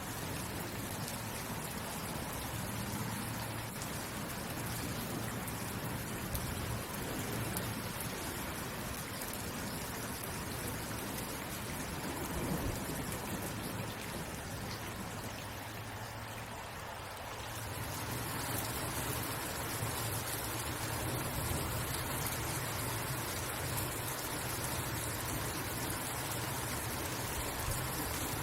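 Steady rain falling, an even hiss of drops throughout. It eases slightly for a couple of seconds a little past the middle, then comes back a touch fuller.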